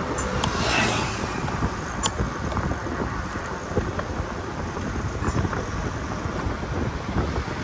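Steady outdoor rumble of wind on the microphone mixed with road or traffic noise, with something briefly passing close about a second in and a few light clicks.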